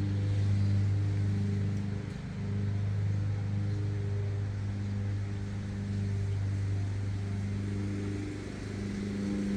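Lawn mower engine running steadily, its hum swelling and dipping slightly as it goes.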